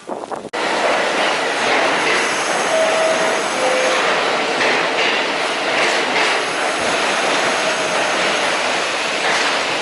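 New York City subway train running past at speed, a loud steady rush of wheels on rail that starts abruptly about half a second in. Two brief high wheel squeals come about three and four seconds in.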